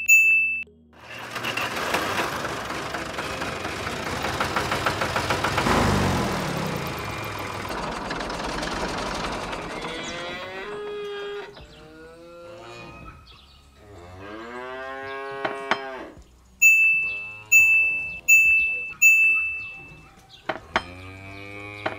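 A cow mooing several times over the second half. Before the moos comes a long rattling noise, the loudest sound, lasting about nine seconds, and a short run of four bright chiming tones sounds at the very start and again near the end.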